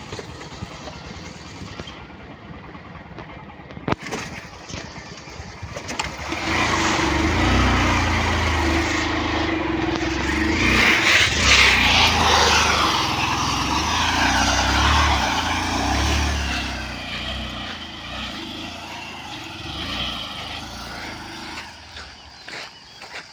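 A motor vehicle's engine running, growing much louder about six seconds in and fading away over the last several seconds.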